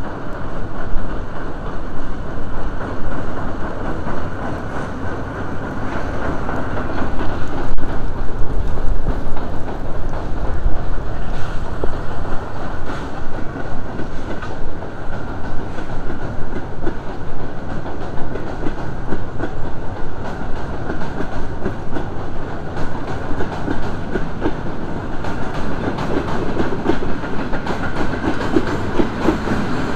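A train of vintage passenger coaches rolling past, the steel wheels clacking over the rail joints in a steady rumble.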